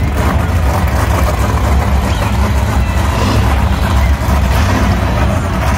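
Monster truck engine running loud and steady, a continuous deep rumble.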